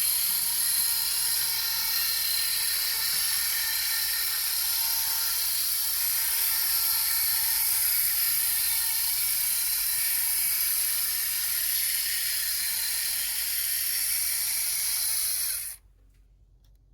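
Model Shay geared locomotive running, its small electric motor and gear drive whirring steadily with a faint gear whine, which the owner judges to be running quite well after adjustment. The sound cuts off suddenly near the end.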